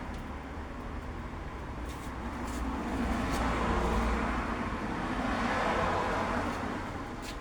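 A road vehicle passing, its noise swelling to a peak about halfway through and then fading.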